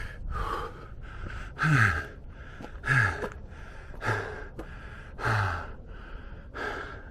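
A man breathing hard from exertion on a steep climb: about six heavy, partly voiced breaths a little over a second apart, several ending in a falling groan.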